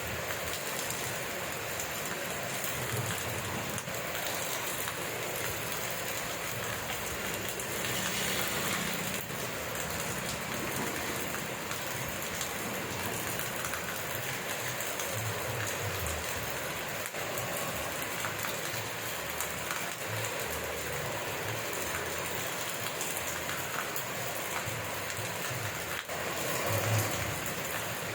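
Steady rain falling and pattering on surfaces, an even hiss with a slight swell about two-thirds of the way through and near the end.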